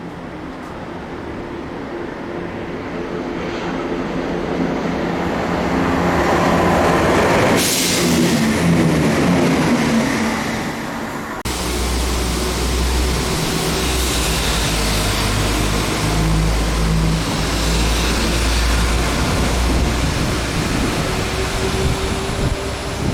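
Diesel train passing: engine noise builds and its pitch drops as it goes by, with a brief sharp crash around the middle. Partway through, the sound changes abruptly to a heavy, low diesel rumble that lasts to the end.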